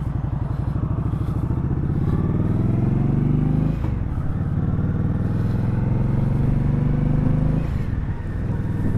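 Indian Scout Sixty's liquid-cooled V-twin accelerating: the engine note climbs, drops at an upshift about four seconds in, climbs again and drops at a second shift near the end.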